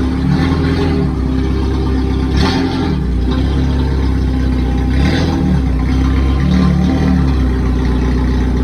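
Straight-piped four-cylinder race car engine running loudly, its revs swelling and dropping every two to three seconds.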